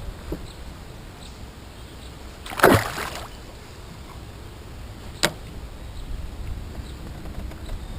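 A single splash at the water's surface about two and a half seconds in, then one sharp click a few seconds later, over a low steady rumble of wind and water around a fishing kayak.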